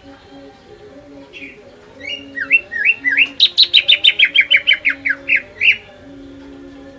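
Cucak ijo (green leafbird) singing: a few scattered whistled notes, then from about two seconds in a loud, rapid run of sharp notes, each falling in pitch. The run stops about a second before the end, and faint steady low tones sound beneath throughout.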